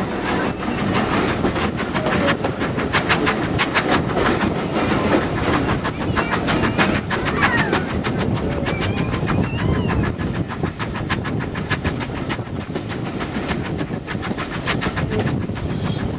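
Steam-hauled passenger train running along the track: a rapid, steady clickety-clack of wheels and carriages over the rails over a continuous rumble.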